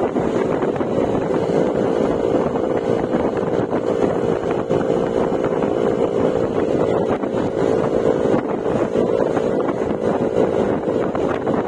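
Yamaha Mio Gravis 125 cc single-cylinder scooter engine running at a steady cruise through an Akrapovic exhaust with silencer, its note easing slightly around the middle before settling back. Wind buffets the microphone.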